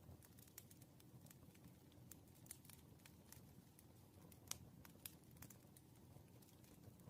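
Faint crackling of a burning wood fire: irregular sharp pops and snaps, several a second, over a low steady rumble, with one louder pop about four and a half seconds in.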